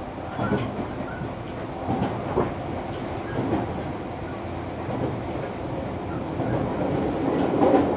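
Running noise heard from inside the motor car of a JR Kyushu 305 series electric train under way: a steady rumble of wheels on rail, with a few short knocks of the wheels passing over rail joints.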